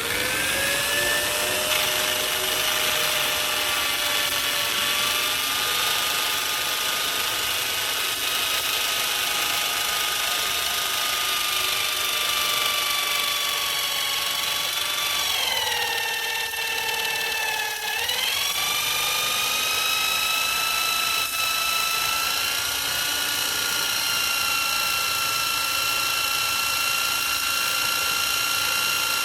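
High-speed electric power tool motor whining steadily, spinning up in pitch at the start. About halfway through, its pitch drops for a couple of seconds as the motor bogs under load while cutting, then climbs back.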